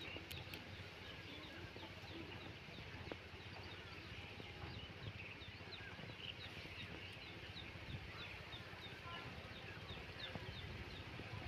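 Birds chirping: a steady run of short, high, falling chirps, about two a second, over faint outdoor ambience.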